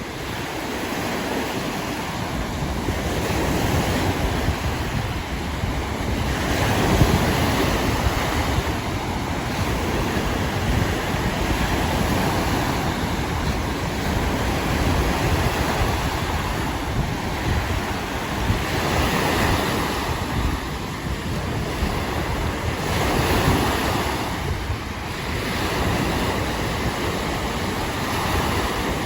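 Lake waves washing onto the shore in swells that rise and fall every few seconds, with wind buffeting the microphone as a low rumble.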